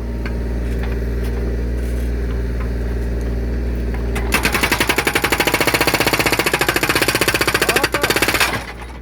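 Kubota U35S mini excavator's diesel engine running steadily. About four seconds in, its hydraulic breaker starts hammering into a firewood log in a fast, even rattle of about ten blows a second. The breaker stops abruptly shortly before the end.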